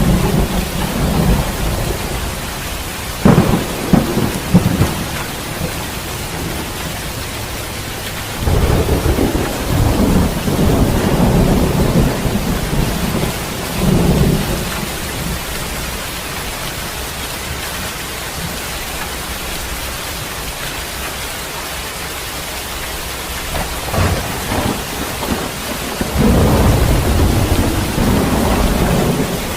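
Heavy rain falling steadily through a thunderstorm. A few sharp thunder cracks come about three to five seconds in, a long low rumble runs from about eight to fourteen seconds, and another rumble builds near the end.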